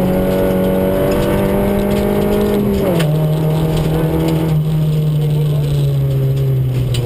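Ford Ka rally car's engine heard from inside the cabin, running hard at high revs; about three seconds in the pitch drops sharply as it shifts up a gear, then the revs ease slowly lower, over steady tyre and road noise from the gravel stage.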